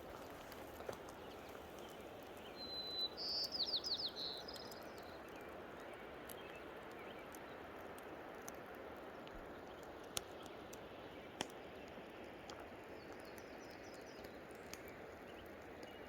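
Steady rush of water from a waterfall, with a bird giving a quick series of high chirps about three seconds in and a couple of faint clicks later.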